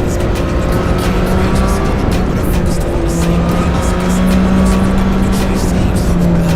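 Triumph Street Triple 765 RS three-cylinder engine running under way, with wind noise, under background music.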